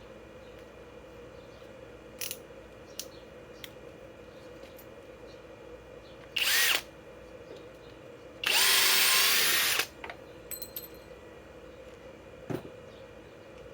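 Cordless Flex power tool backing a fastener out of wood: a short burst of running about six seconds in, then a longer steady run of about a second and a half. A few light clicks come before.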